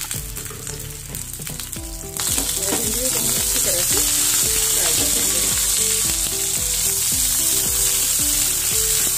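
Slit okra pods frying in hot oil in a pan: a steady sizzle that jumps much louder about two seconds in, over light background music.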